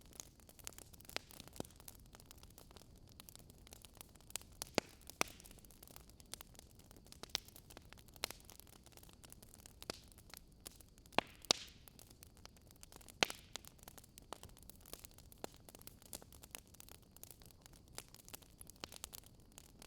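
Wood fire crackling, with irregular sharp pops and snaps over a faint steady hiss, a few louder pops standing out.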